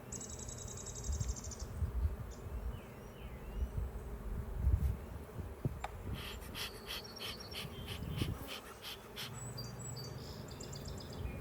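Honeybees buzzing around an opened hive, a steady low hum with some knocks and rustling from handling. Rapid high trills come in near the start and again about six seconds in.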